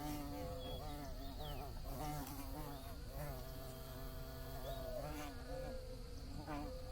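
Bees buzzing in flight: several overlapping hums that waver and swoop in pitch as they move about, with a faint steady high-pitched tone behind them.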